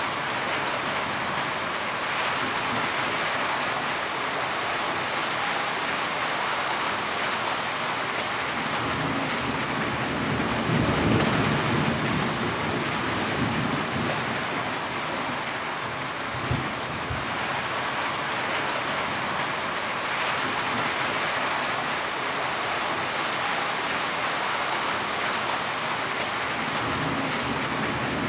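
Steady heavy rainfall, an even hiss of drops. A low rumble swells briefly about ten seconds in.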